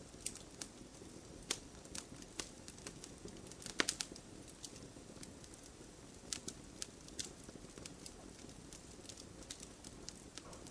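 Wood fire crackling in a fireplace: irregular sharp pops and snaps over a low, steady hiss of burning, with a small burst of louder pops about four seconds in.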